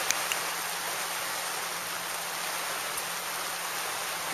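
Steady hiss of rain, with two sharp ticks in the first half-second.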